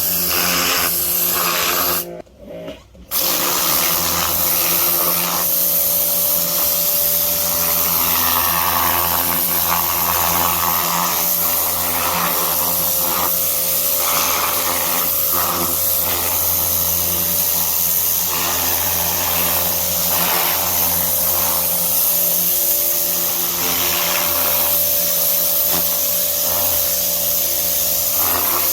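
Pressure washer running: a steady motor hum under the hiss of the high-pressure water spray. The sound cuts out briefly about two seconds in, then picks up again and continues.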